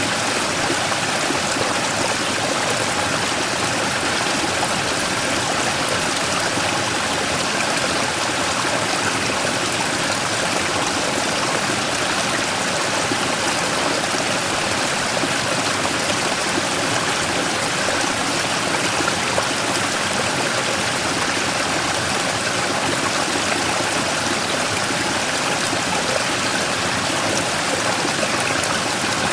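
Mountain stream rushing steadily over and around a large boulder, an even, unbroken water noise.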